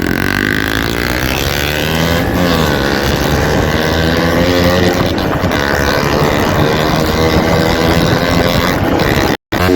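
KTM RC 200's single-cylinder engine running through a loud aftermarket Akrapovic exhaust with the dB killer removed, its pitch rising and falling as it is revved. The sound cuts out briefly near the end.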